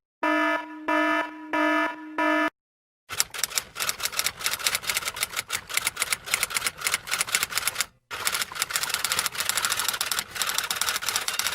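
A pitched alarm tone sounding four times in short pulses, then, after a brief pause, a typewriter's keys clacking rapidly and unevenly, with a momentary break about eight seconds in.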